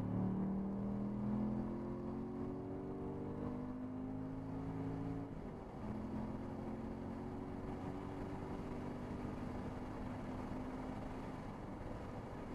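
Car engine under hard acceleration, heard from inside the cabin: the revs climb steadily through a gear, drop at an upshift about five and a half seconds in, then climb again.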